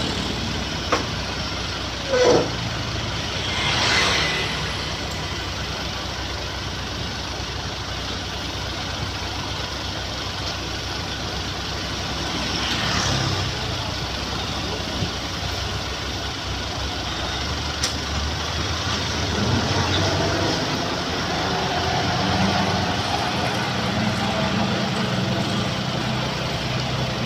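Heavy diesel truck engines running with a steady low rumble, swelling twice as vehicles move past, with a few short clicks and knocks; in the last few seconds the engine note settles into an even idle.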